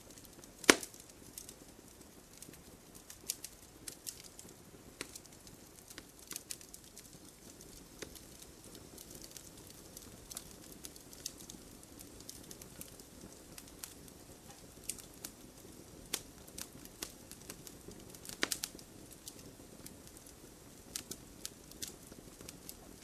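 Wood fire burning in a fireplace: irregular crackles and small pops over a low steady rush of flame, with a sharper pop about a second in and a few louder snaps around two-thirds of the way through.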